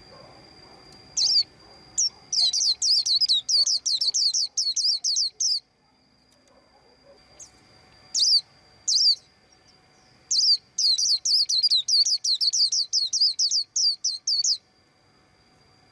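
White-eye chirping in two rapid runs of high, quick down-slurred notes, each a few seconds long, with single chirps before and between the runs.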